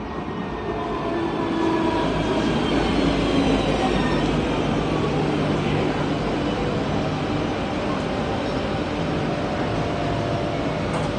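Kaohsiung Light Rail tram running into a station stop: steady rail and running-gear rumble that swells over the first two seconds, with a motor whine falling in pitch as the tram slows.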